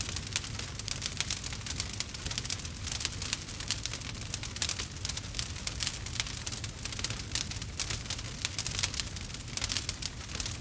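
Campfire crackling: dense, irregular pops and snaps of burning wood over a steady low rumble of the flames.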